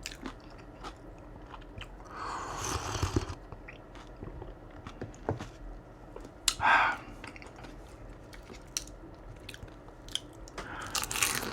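Close-miked chewing and crunching of food, with many small wet mouth clicks and a louder, noisier crunch about two to three seconds in.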